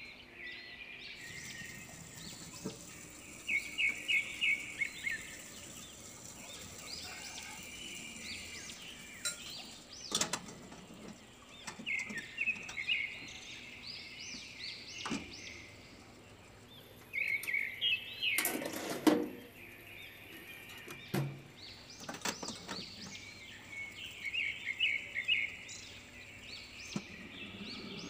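Small birds chirping in repeated bursts of quick chirps. A few sharp clinks of handling at the oven's wire rack, with one louder clatter about two-thirds of the way through.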